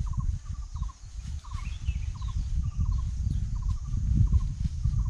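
A bird calling over and over in short clusters of two or three quick notes, about two clusters a second, over a louder, steady low rumble on the microphone.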